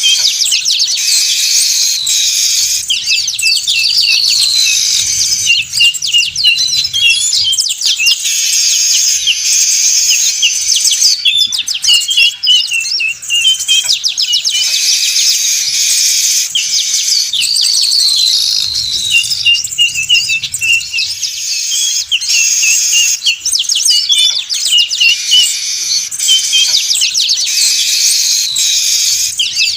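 A flock of weaver birds chattering noisily: dense, unbroken high chirps and buzzy trills, the same stretch of calls repeating about every fifteen seconds. It is a looped lure recording, played to call weavers in for trapping.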